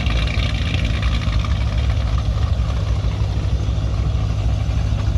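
Car engine with an aggressive aftermarket camshaft idling in a steady, uneven low rumble.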